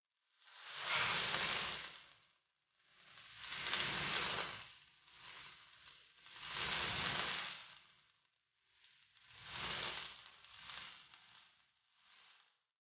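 Chicken breasts sizzling in oil in a frying pan. The sizzle swells and fades about every three seconds, four or five times, with quiet gaps between.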